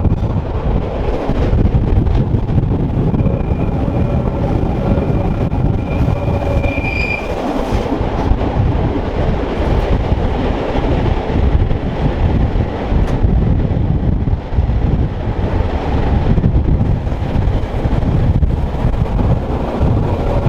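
Rhaetian Railway train on the metre-gauge Bernina line running steadily with a heavy rumble of wheels on rail. A high wheel squeal is heard about three to seven seconds in.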